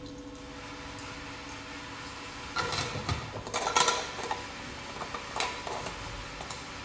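Metal parts of a hand-cranked meat grinder being handled and fitted together: a cluster of clinks and clatters about two and a half to four seconds in, and one more knock a little later.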